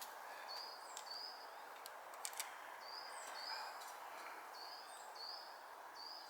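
A bird calling over and over in short, high, paired notes, over a steady outdoor background hiss, with a few faint clicks about two seconds in.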